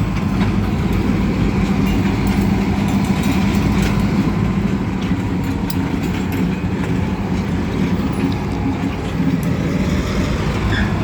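Diesel locomotive engine running steadily as the train shoves cars, a constant low drone with a few faint clicks and knocks.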